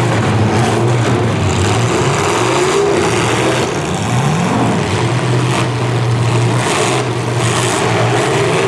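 V8 engines of demolition derby cars running and revving, their pitch rising and falling over a steady engine drone.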